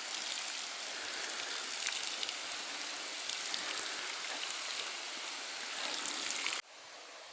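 Steady rushing noise of water, with faint scattered ticks, cutting off abruptly near the end.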